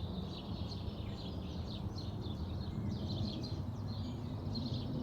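Several songbirds singing at once: a steady tangle of short, high chirps and trills overlapping one another, over a constant low rumble.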